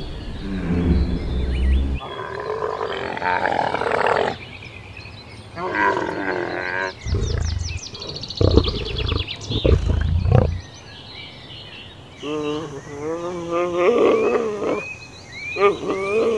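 A string of short wild-animal call clips joined by abrupt cuts, including big-cat roars. About five separate calls follow one another, and near the end there are several pitched, wavering calls.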